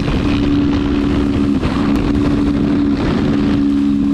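Motorcycle engine running at a steady high speed, with wind and road noise, its drone briefly dipping a few times.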